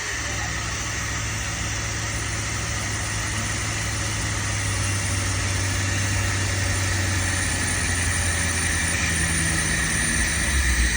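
A 1984 project car's fuel-injected engine idling steadily, with its ignition timing set well advanced.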